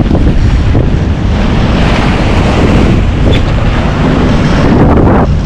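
Strong wind buffeting the microphone aboard a sailing yacht, with the rush of sea and waves beneath it.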